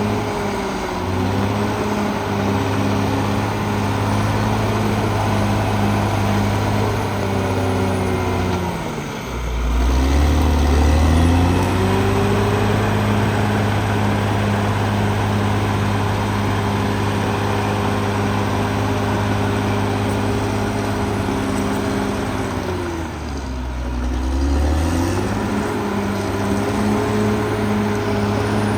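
Caterpillar D6R XL bulldozer's diesel engine running steadily under work. Twice, about nine seconds in and again about twenty-three seconds in, the engine note drops sharply and then climbs back up.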